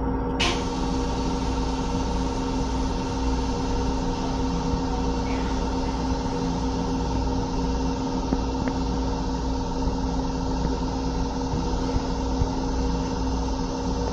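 Steady rumble and hum of a Metro-North M7 electric railcar heard inside its restroom: a low drone with several steady tones over it. A sharp click about half a second in.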